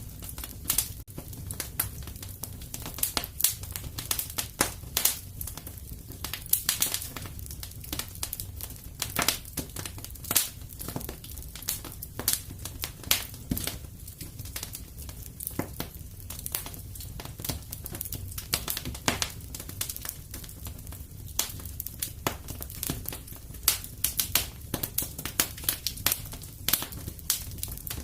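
Fireplace crackling: irregular sharp pops and snaps, several a second, over a steady low rumble of the fire.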